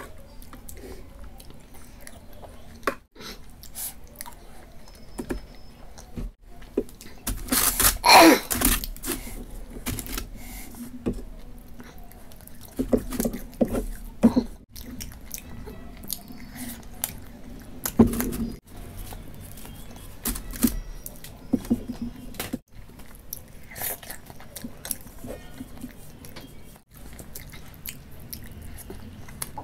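Close-miked chewing and mouth sounds of a person eating roti with curry: wet chewing with many small smacks and clicks, and a louder burst of noise about eight seconds in.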